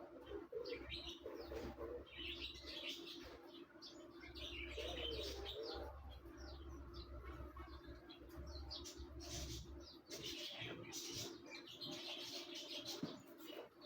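Small birds chirping again and again in the background, over a steady low hum.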